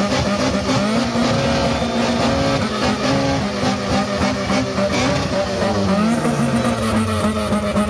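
Car engine revving hard and held at high revs, its pitch stepping up and down and falling briefly about six seconds in.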